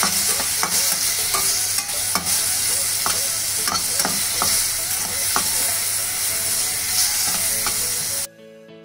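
Tomatoes, garlic and whole dried red chillies sizzling in an aluminium kadhai, frying down until the tomato juices cook off, while a metal spatula stirs them, scraping and clinking against the pan about every half second. Near the end the sizzle cuts off abruptly and soft background music takes over.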